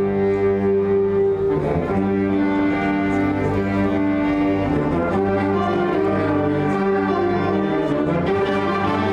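Live high school concert ensemble playing slow, held chords that change every few seconds.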